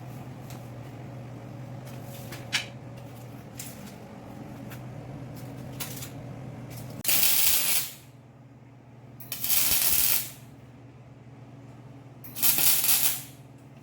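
Three short hissing sprays, each about a second long and a few seconds apart, over a steady low hum, with a few light clicks before them.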